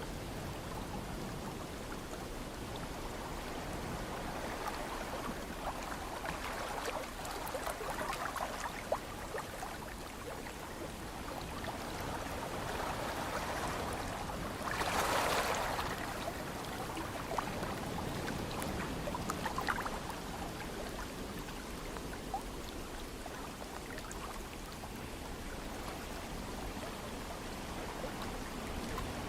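Ocean waves washing in and out on the shore, a steady wash that swells several times, loudest about halfway through, with small splashes and trickles.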